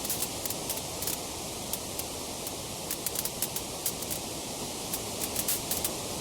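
Wood fire crackling: frequent small sharp snaps and pops over a steady rushing hiss, with the snaps bunching up in quick runs a few times.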